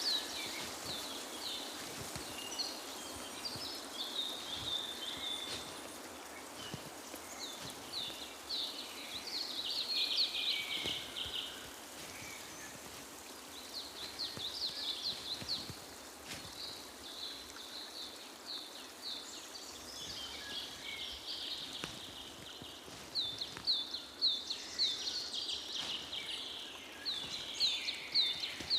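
Songbirds singing: series of quick, high chirping notes and short trills, one phrase after another, over a faint background hiss.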